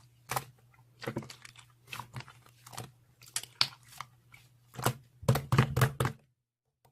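Slime being squished and pressed by hand, giving irregular sticky pops and crackles, loudest in a quick cluster about five seconds in, then cutting off abruptly about six seconds in. A steady low hum runs underneath.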